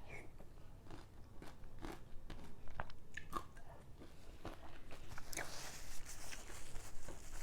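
Close-miked eating of mohinga: a run of sharp, crunchy bites and chewing, with a denser crisp crackling stretch about five seconds in.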